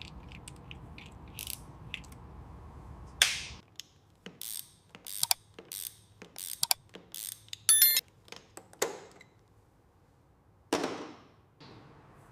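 Mechanical clicks and clacks of car parts and hand tools being fitted, with a brief ratchet-like rattle near the middle. A low hum runs under the first few seconds and then cuts off.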